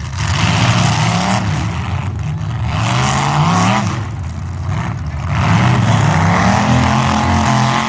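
Full-size demolition derby cars' engines revving hard, the pitch climbing and dropping several times in surges as the drivers accelerate and back off.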